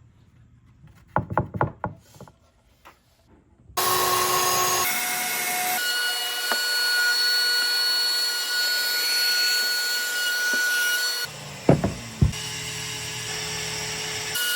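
A few sharp knocks, then an electric power tool running steadily on wood with a high whine, broken by abrupt cuts between clips and two more knocks partway through.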